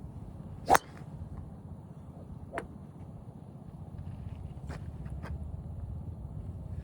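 Golf iron striking a ball at the range: one sharp, loud crack about a second in, then a fainter strike a couple of seconds later, over a steady low rumble.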